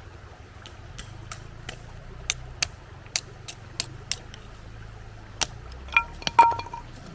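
Campfire wood crackling and popping in sharp, irregular snaps. A short metallic clink rings out about six seconds in.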